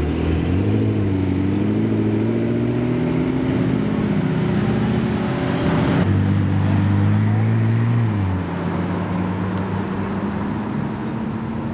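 Supercar engines running at low revs as the cars creep past, their note rising and falling a little. One engine note drops away about eight seconds in.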